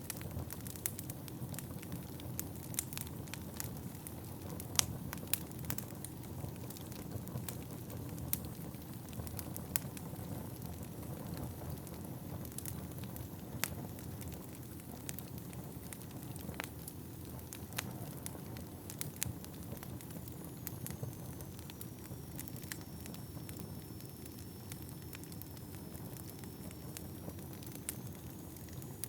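Wood fire burning in a fireplace: a steady low rumble of flames with irregular sharp crackles and pops from the burning logs, busier in the first half. A faint high whistle comes in during the last third.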